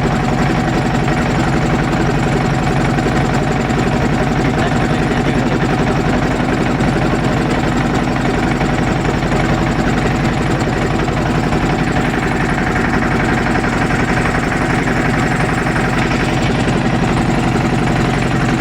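Motorboat engine running loudly and steadily at an even speed.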